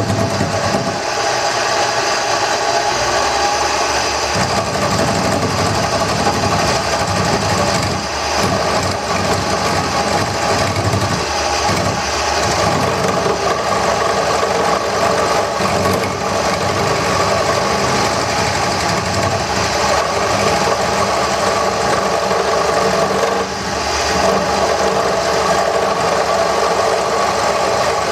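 Wood lathe running steadily with a turning gouge cutting a spinning wooden handle blank: a constant motor hum under the scraping of the tool taking big chips, which briefly eases twice.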